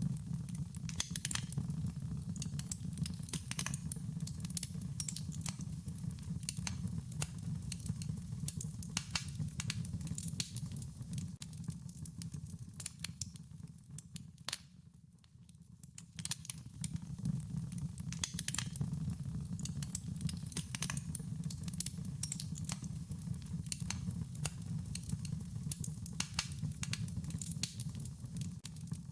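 Wood fire crackling: many irregular sharp pops and snaps over a low steady rumble of burning. Everything fades briefly about halfway through, then returns.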